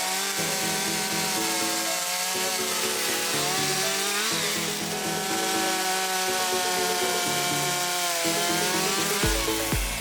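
Chainsaw cutting through firewood logs, its engine pitch sagging and recovering as it bites into the wood. Background music plays along, with a low beat coming in near the end.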